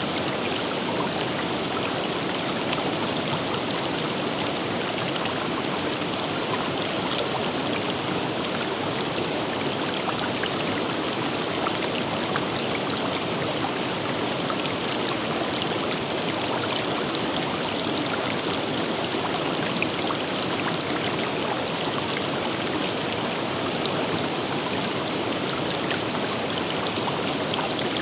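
A forest river running, with a steady rush of flowing water and small splashes and trickles throughout.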